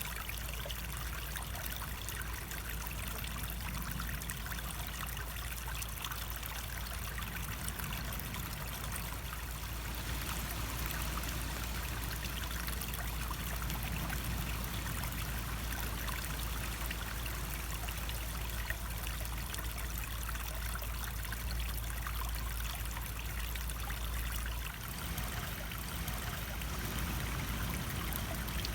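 Running water of a stream, a steady trickling rush with no let-up.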